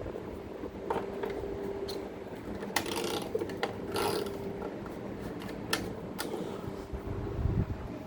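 A 2002 Baram Chingu electric fan running, with a steady motor hum and several irregular sharp clicks and rattles from the fan.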